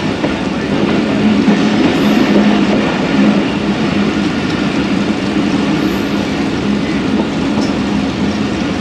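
Passenger train running on the track, heard from on board: a steady running noise of coach wheels on the rails with a constant low hum.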